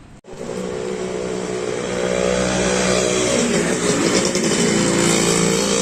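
A motor vehicle engine running close by. It starts abruptly, grows louder over the first couple of seconds and then stays loud and steady.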